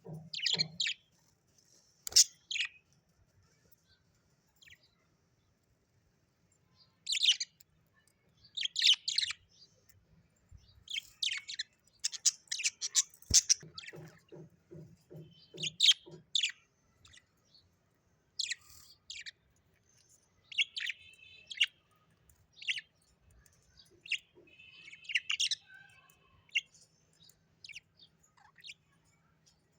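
Birds chirping and calling in short bursts of sharp, high notes, scattered through with silent gaps between them. Around the middle, a lower call pulses rapidly, about four to five beats a second, for roughly two seconds.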